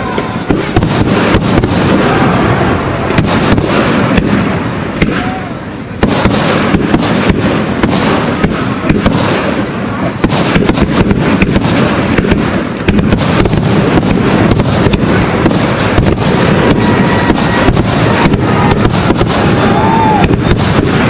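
Aerial fireworks display: a dense, continuous run of shell bursts and crackling. There is a brief lull about five seconds in, then the bangs resume abruptly.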